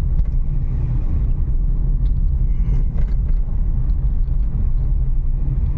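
Renault Kiger heard from inside the cabin, driving slowly over a rough, broken forest road: a steady low rumble of tyres and engine, with a few faint knocks about halfway through.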